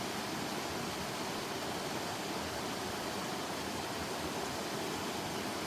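Steady, even rushing noise with no distinct tones or strokes, like running water or rain.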